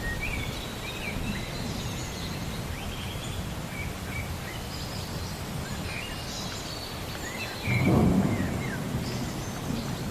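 Thunderstorm ambience: a steady low rumble with birds chirping throughout, and a louder roll of thunder about eight seconds in.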